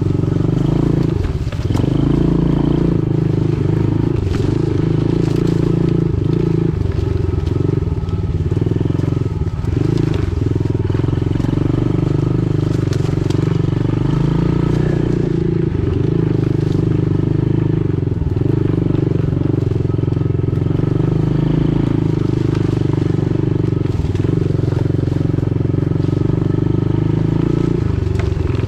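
Pit bike engine running steadily while the bike is ridden, its pitch rising and dipping a little with the throttle.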